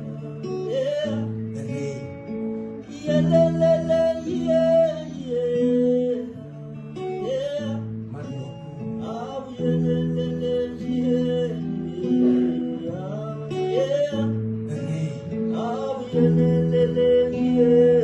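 Live music: an acoustic guitar plays a slow, repeating chord pattern, with a wordless melody line that slides between notes above it.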